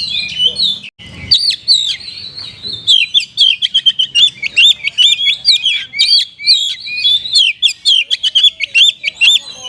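Oriental magpie-robin (kacer) singing a fast, loud run of sharp high chirps and whistled slurs, with notes repeated several times a second, in a mimicry-filled song. There is a brief break about a second in.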